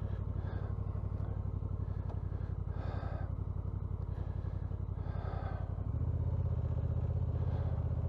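Honda NT1100's parallel-twin engine running steadily just after being started, its note stepping up a little louder about six seconds in.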